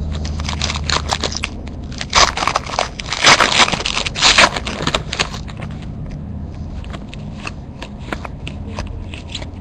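A trading-card pack wrapper being torn open and crinkled, with cards rustling and sliding against each other. The crinkling is loudest from about two to five seconds in.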